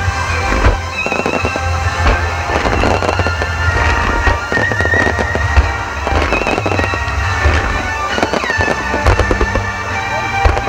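Fireworks display: a dense, continuous run of bangs and crackling from low red shells and star mines, heard over music.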